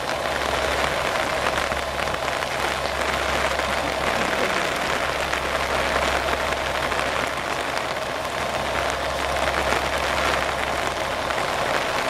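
Steady rain falling, over the low, even hum of a stationary KiHa 47 diesel railcar's engine idling.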